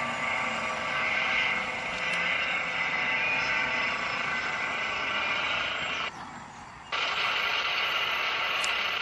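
Recorded sound of a Eurocopter EC135 P2 helicopter's turbines and rotor, played back through a smartphone speaker beside the microphone: a steady multi-toned whine with little bass. It cuts out for under a second about six seconds in.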